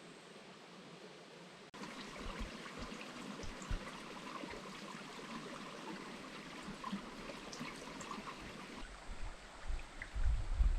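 River water flowing and splashing, cutting in suddenly about two seconds in, with a low wind rumble on the microphone near the end.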